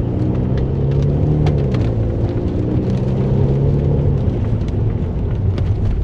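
Car running on the road: a steady low engine and road hum that rises a little in pitch and settles back near the end, with scattered sharp ticks over it.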